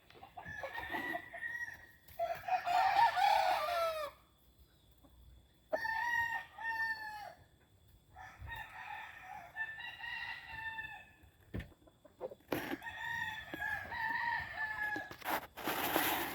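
Game roosters crowing one after another: about five long crows, some overlapping, with short pauses between them. A brief rush of noise near the end.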